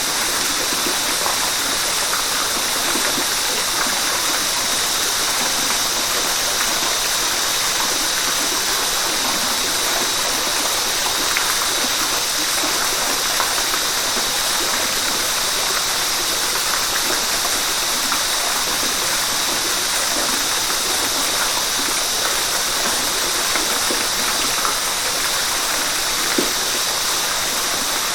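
A river's water rushing steadily, a constant even hiss with small splashes throughout.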